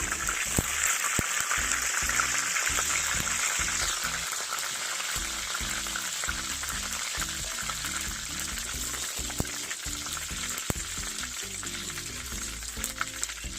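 Batter-coated chicken pieces deep-frying in hot oil, a steady sizzle, with a few sharp clicks of a utensil against the pan.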